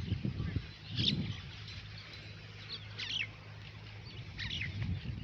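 Outdoor birdsong: three short, high chirps with a falling pitch, spaced a second or two apart, over a steady low background hum and a few soft low thuds.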